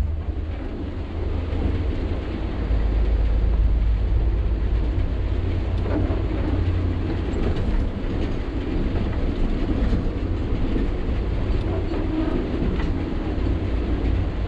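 Sany 6x4 dump truck on the move: a steady low rumble of engine and road noise, with light clattering and rattling throughout.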